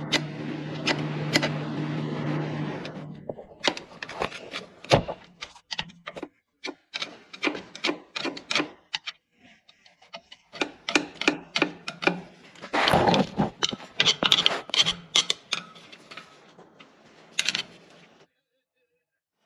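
A steady motor hum cuts off about three seconds in. It is followed by a long run of irregular knocks, clicks and scraping from hand-tool work, with a longer rasping scrape about two-thirds of the way through.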